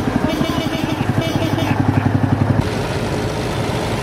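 Old tractor engine running with a rapid rhythmic chugging. A high-pitched steady tone sounds over it and stops about two and a half seconds in.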